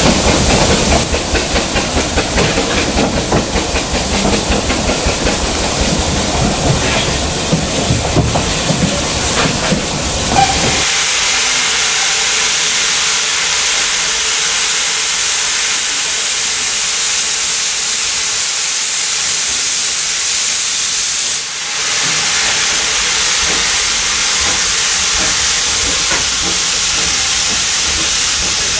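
Vale of Rheidol 2-6-2T steam locomotive No. 8 working a narrow-gauge train, with rhythmic running sound for the first ten seconds or so. Then the low rumble stops and a loud, steady hiss of escaping steam takes over, with a brief dip a little after twenty seconds.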